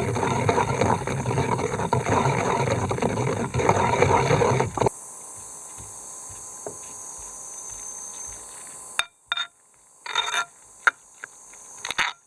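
Loud, continuous scraping that stops abruptly about five seconds in. A quieter steady hiss follows, with a few short knocks near the end.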